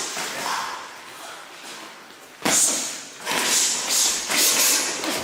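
Boxing gloves thudding in a sparring exchange: a sudden sharp hit about two and a half seconds in, then a quick run of further punches with short hissy bursts alongside.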